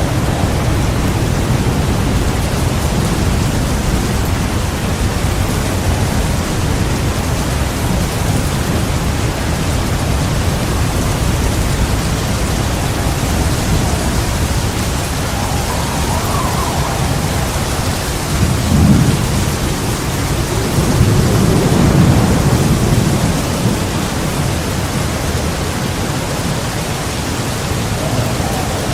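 Heavy rain pouring steadily under a thunderstorm, with rolls of thunder rumbling low. A short rumble comes about two-thirds of the way in, and a longer, louder roll follows a couple of seconds later.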